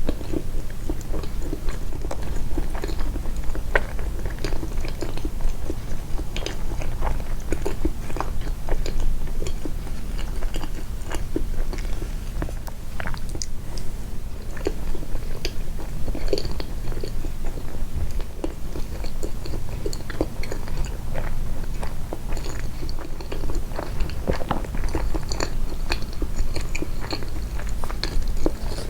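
Close-miked chewing and biting of a soft sweet pancake dessert: a steady run of short mouth clicks and smacks, amplified for an eating-sounds video.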